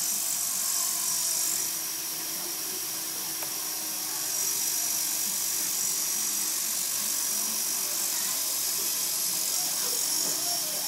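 Radio-controlled model helicopter's electric motor and rotor whining steadily with a high, thin tone, a little louder from about four seconds in.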